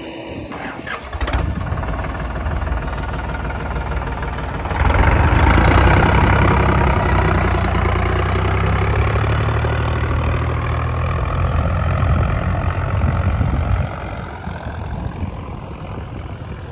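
Heavy diesel machine engine running, with a few clicks in the first second or so. About five seconds in it rises to a louder, higher-revving stretch, as if under load, and drops back down near the end.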